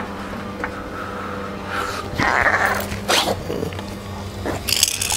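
Hydraulic floor jack being pumped to lift the car by its pinch weld, with a few irregular creaks and clunks in the second half over a steady hum.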